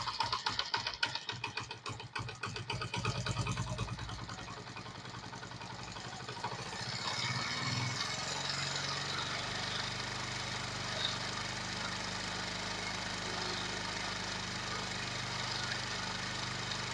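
Motorcycle engine idling very slowly and unevenly, close to stalling, with its carburettor mixture set too lean. About seven seconds in, as the mixture screw is opened, the idle picks up and settles into a steadier, faster idle.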